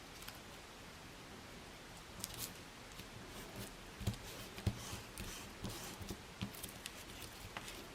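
Small handling noises of paper crafting: after a quiet couple of seconds, scattered light clicks and short rustles of card and paper being handled and cut.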